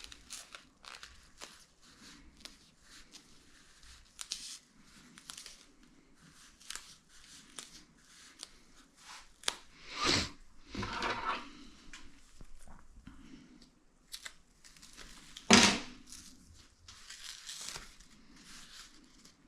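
Hands working self-adhesive window-and-door sealing strip for a homemade dryer drum felt seal: scattered small rustles, snips and tearing sounds. Two louder sudden noises come about ten and fifteen and a half seconds in.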